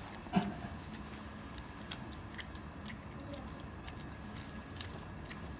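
Steady high-pitched insect trill, with scattered faint clicks and one soft thump about half a second in.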